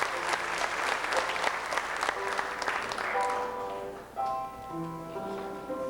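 Audience applauding, the clapping dying away about three seconds in. Instrumental music with sustained held notes runs underneath and carries on alone after the applause ends.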